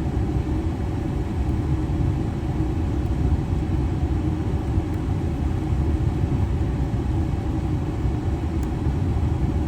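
Steady low rumble of a 6.7 L Power Stroke V8 turbodiesel idling, heard from inside the cab with the air conditioning running.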